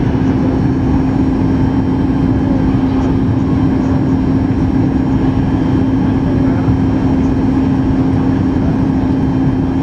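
Steady cabin noise of a Boeing 737-8 MAX, with its CFM LEAP-1B engines and airflow running evenly under a constant low hum, heard from inside the passenger cabin.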